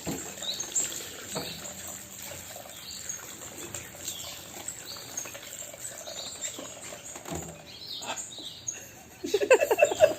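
Parrot chirping over and over in short high calls. About nine seconds in, a much louder rapid pulsing run of calls starts, about six a second.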